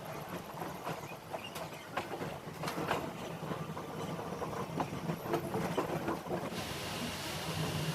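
Passenger train running on the rails, with a steady low hum and irregular clicks and knocks of the wheels over the track. A louder hiss comes in near the end.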